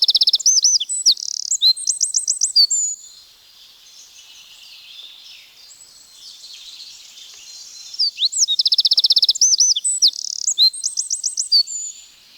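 Eurasian wren singing: two loud, rapid, high-pitched songs of trills and warbles, each about four seconds long. The first is ending in the first three seconds and the second begins about eight seconds in, with fainter birdsong between them.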